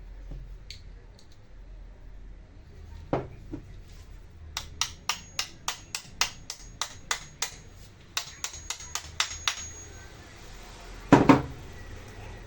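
Light metallic taps, about three or four a second, with a faint ringing. A single knock comes before the run, and a louder double knock comes near the end.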